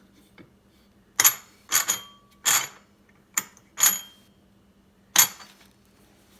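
Metal parts of a hand grain grinder clinking and knocking together as they are handled and fitted: six sharp clinks, each with a brief metallic ring.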